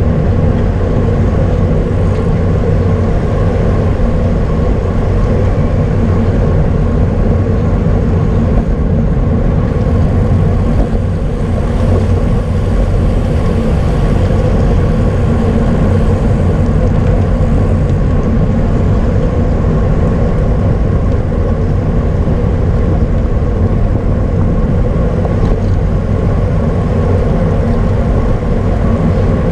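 Wind rushing over the microphone of a camera riding on a racing bicycle, a steady low rumble with no breaks.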